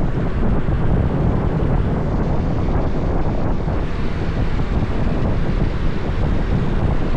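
Motorbike riding noise at speed: wind buffeting the microphone over the running engine and road noise, as a steady low rumble.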